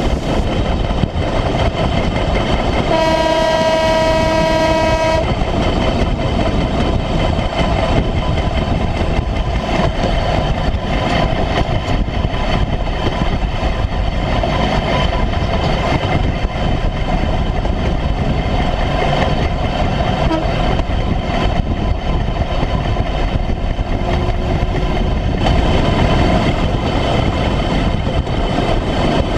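A 1957 Series I Land Rover running along railway track on flanged rail wheels: steady engine and wheel-on-rail noise. A single-note horn sounds once for about two seconds, a few seconds in.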